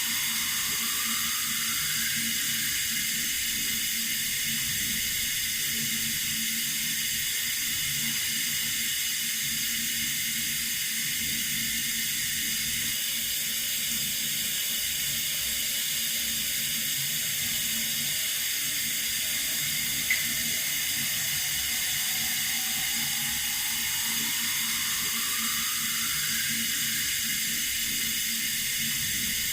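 Running water from a tap, a steady, even hiss. A faint tone rises slowly at the start and again in the last third, and there is one brief click about two-thirds through.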